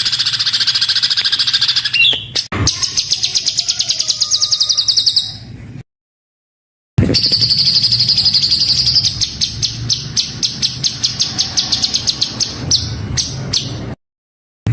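Songbird singing rough, very rapid 'tembakan' (rapid-fire) runs of repeated high notes, many per second, as used in a birdsong masteran tutor recording. The song cuts out abruptly to dead silence for about a second in the middle and again near the end, where the recording is edited.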